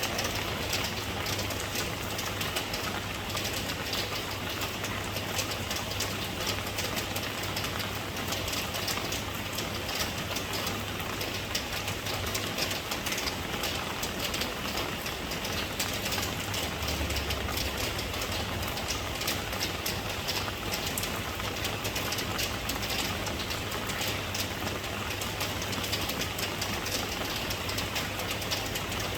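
Steady rain falling: a dense patter of drops over an even hiss, with a steady low rumble underneath.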